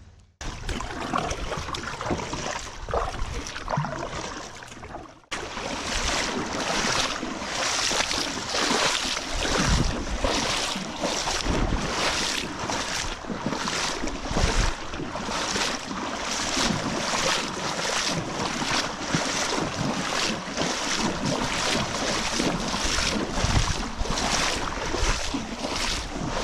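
Water rushing and splashing around a moving kayak, with wind buffeting the microphone. From about five seconds in, the noise swells and fades in an even rhythm of about two pulses a second.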